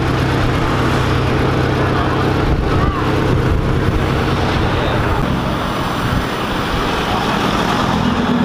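Car engines running at low speed as cars drive off, with people talking around them. The engine note fades about five to six seconds in.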